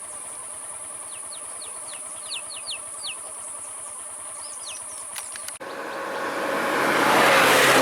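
Steady outdoor background with a high continuous whine and a few short falling chirps. After a sudden break about five and a half seconds in, a road vehicle's engine and tyres approach and grow loud near the end.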